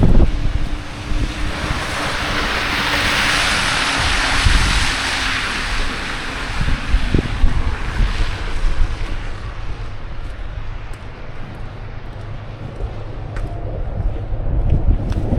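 Blizzard wind buffeting the microphone in low rumbles, with a rushing hiss that swells over a few seconds and dies away about nine seconds in.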